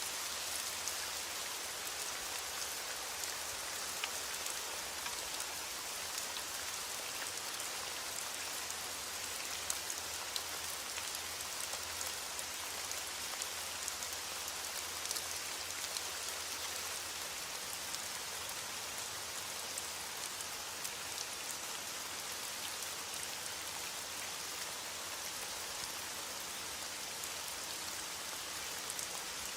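Steady rain falling on a surface: an even hiss with many small drop ticks, no thunder.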